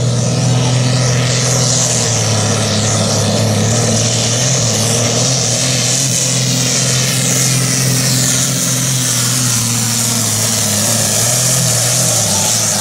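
A pulling tractor's diesel engine running flat out under load during a pull, a loud, steady tone that holds nearly constant pitch.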